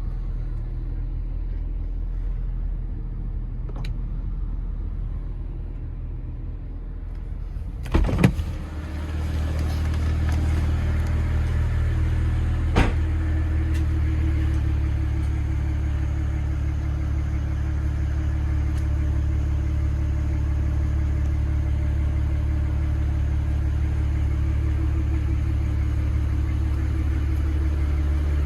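Stock 2008 BMW 135i's twin-turbo 3.0-litre inline-six cold-starting: a low hum, then a short burst as it cranks and catches about eight seconds in, after which the engine idles steadily. A single sharp click a few seconds after the start.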